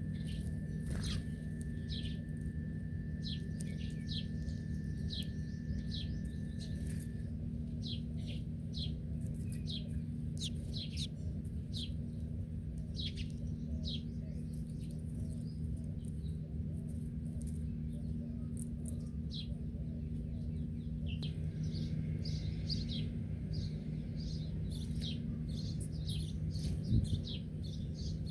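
Small birds chirping: many short, high, falling chirps, several a second, thickest near the end. Underneath runs a steady low hum, with a thin steady whistle-like tone in the first quarter.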